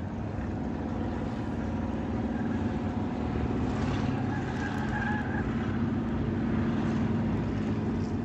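Race car engine running steadily, a continuous low drone with no sharp knocks or breaks.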